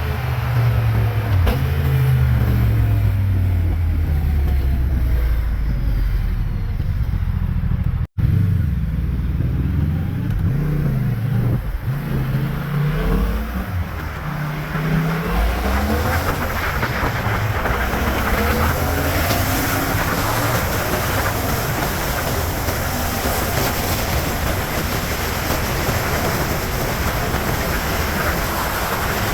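Yamaha MT-07's parallel-twin engine through a LeoVince underbody exhaust, its note falling and rising with the throttle and gear changes. Wind and road rush build up over the second half. The sound drops out for an instant about eight seconds in.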